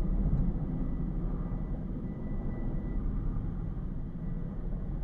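Firefighting helicopter's engine and rotors droning steadily, with a faint thin whine on top. Strong wind buffets the microphone.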